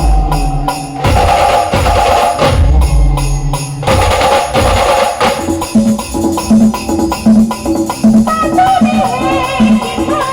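Live band music on keyboard with drums and tambourine-like percussion. Heavy low drum hits come in the first half, then a steady bouncing two-note bass line with a melody over it.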